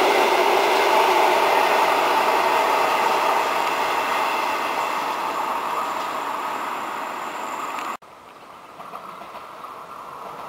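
A train rolling past, its noise slowly fading as it moves away. About eight seconds in the sound cuts off suddenly, and a much quieter rumble follows and slowly grows louder.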